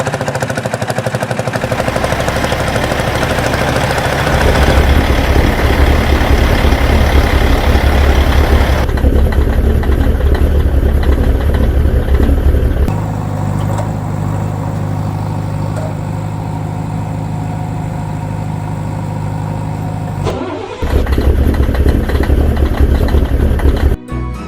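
Vehicle engine sounds, running steadily and revving, in several spliced pieces that change abruptly, with a brief break near the end.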